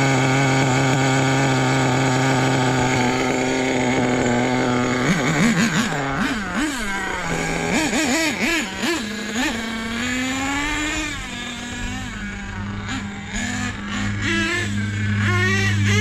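Small nitro (glow) engine of an RC monster truck running at high revs, steady for about five seconds, then revving up and down in quick blips before settling to a lower idle about ten seconds in, with another rev climbing near the end.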